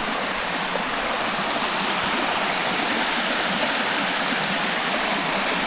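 Creek water rushing steadily over rocks, a constant hiss with no breaks.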